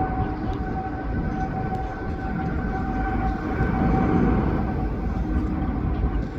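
Jet airliner engines running: a steady low rumble with a steady whine on top.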